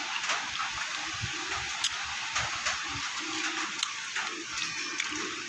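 Wet eating sounds of a vinegar-dressed radish and tomato salad: chewing with scattered small mouth clicks, over a steady hiss.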